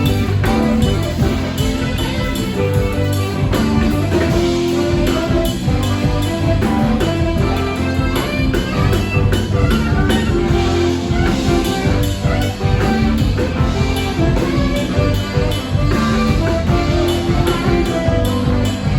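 Live band playing an instrumental passage with electric guitar, bass and drum kit.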